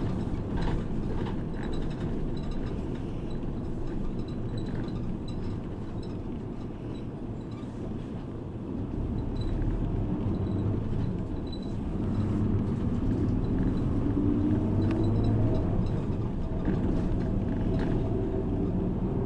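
Ride inside a city bus under way: steady engine and road rumble. It eases off around the middle, then grows louder from about two-thirds through as the engine note rises with acceleration, with light rattles throughout.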